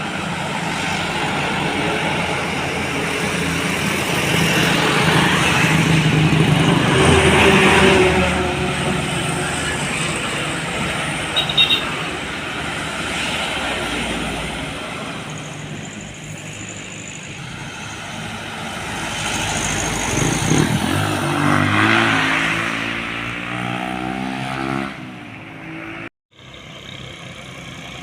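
Road traffic with heavy trucks passing close by: engine and tyre noise swells and fades as each goes past, the first around a quarter of the way in and another near the end. Near the end a truck engine's pitch climbs as it pulls away, before the sound cuts off abruptly.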